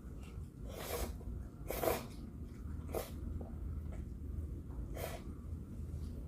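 Short breathy mouth and nose noises while eating, four of them spread over a few seconds, over a low steady hum.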